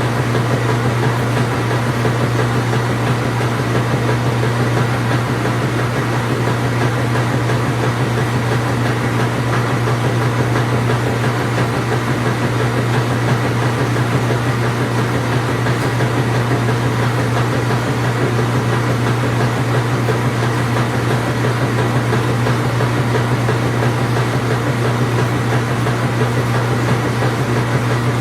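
Truck engine running steadily at a constant speed, a loud low hum with no revving or change in pitch.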